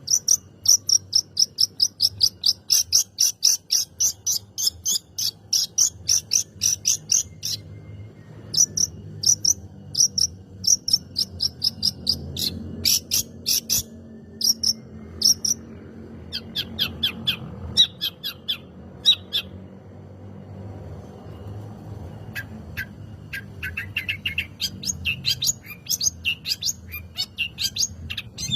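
Long-tailed shrike (cendet) singing, fast runs of short, sharp, high notes several a second, broken by brief pauses.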